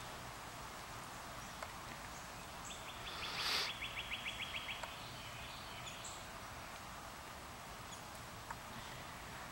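Outdoor background hiss with a bird's rapid trill of about twenty short even notes, lasting about two seconds, starting near three seconds in. A brief burst of noise sounds in the middle of the trill, and a few faint high chirps are scattered through the rest.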